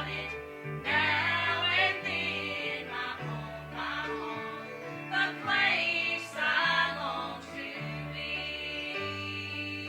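Gospel special music in a church service: singing over an instrumental accompaniment with held bass notes.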